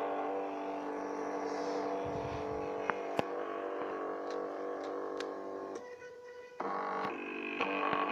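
Stepper motors of a homemade PIC-controlled CNC machine running, giving a steady multi-tone whine. They stop briefly about six seconds in and start again at a different pitch, which shifts once more near the end. There are a couple of sharp clicks around three seconds in.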